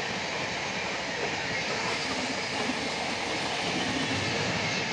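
A train running through the station: a steady rumble and rattle of wheels on rails.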